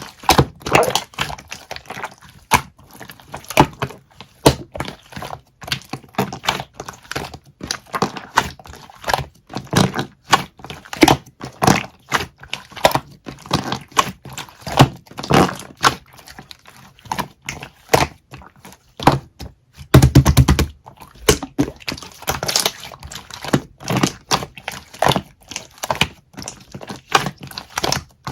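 Slime being squished, poked and pressed by hand, making a dense, irregular stream of sticky clicks and pops. A louder, longer burst comes about twenty seconds in.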